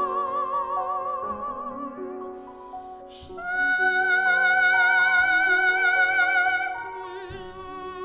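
Classical soprano singing an art song with piano accompaniment. A note with vibrato fades over the piano in the first two seconds. About three seconds in, after a short hiss, she swells into a long, loud held high note that dies away near seven seconds, and the piano plays on.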